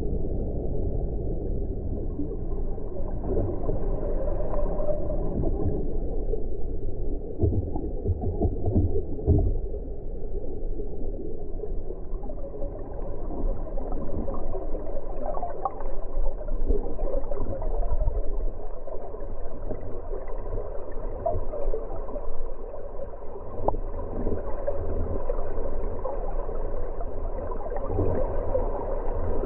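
Fast-flowing floodwater of the River Churn, heard muffled and rumbling with gurgling and scattered small knocks.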